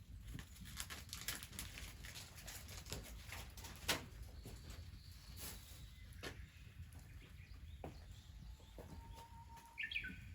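Wood fire crackling, with irregular sharp pops and snaps, one loud pop about four seconds in. A short bird call comes near the end.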